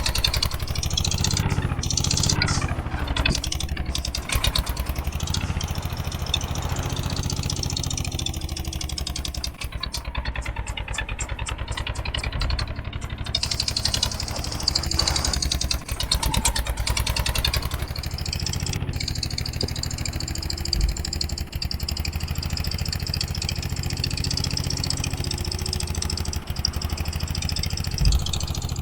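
Eicher 241 tractor's single-cylinder diesel engine running steadily, its speed rising and falling slightly.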